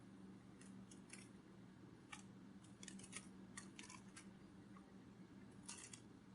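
Near silence: faint, irregular soft clicks and ticks over a low steady hum.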